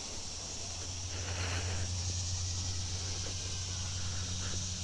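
Crickets and other insects in a steady, high-pitched drone, over a low steady rumble.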